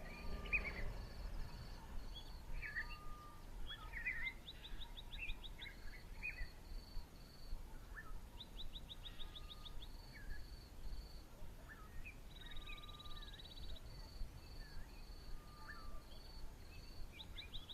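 Several wild birds calling in bushveld: scattered chirps and short whistles, a high note repeated about four times a second in runs, and now and then a fast, dry trill.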